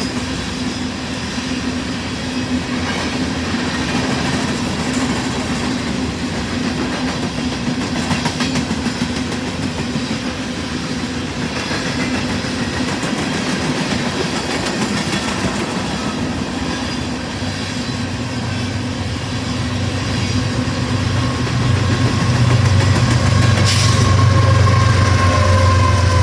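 A freight train rolling past, its cars running steadily on the rails. About two-thirds of the way through, a deep engine-like rumble comes in and grows louder.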